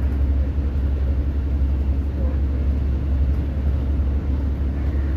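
Inside the cabin of a Class 150 diesel multiple unit: a steady low rumble from its underfloor diesel engine and running gear, with a faint hiss of motion over it.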